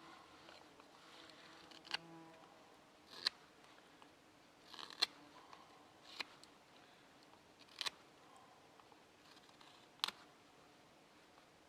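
Sharp clicks and short scrapes of small hard objects being handled, one every second or two, over a faint steady background.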